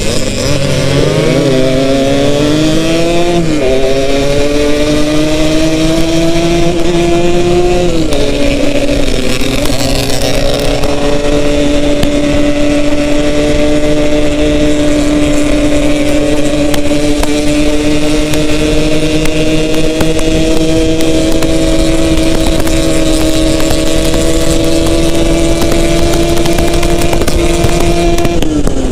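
Yamaha RX-King two-stroke single-cylinder motorcycle engine under way: it revs up and drops back twice in the first eight seconds as it shifts up through the gears, then holds a steady pitch at cruising speed, and the revs fall near the end as the throttle closes.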